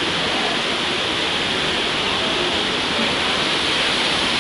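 Rushing mountain water: a steady, loud hiss of water pouring over rocks.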